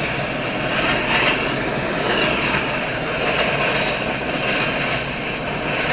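Freight cars of a long mixed freight train rolling past: a steady noise of steel wheels running on the rails.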